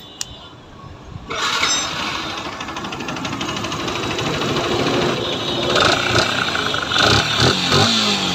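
Yamaha R15 version 2's single-cylinder four-stroke engine starting about a second in and running, with a few quick revs in the second half. It carries an abnormal noise from the clutch cover side, which the mechanic traces to a clutch-side problem.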